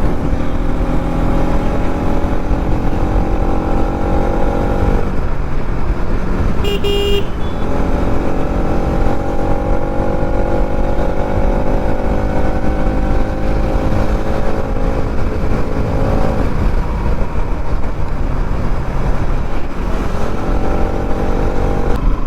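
Bajaj Pulsar NS200's single-cylinder engine on the move, its pitch rising slowly as the bike pulls, then falling about five seconds in and again about sixteen seconds in, with heavy wind rush on the microphone. A short horn beep sounds about seven seconds in.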